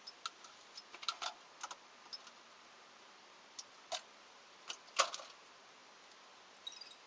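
Irregular light clicks and taps over faint hiss, with a small cluster between one and two seconds in and the loudest click about five seconds in.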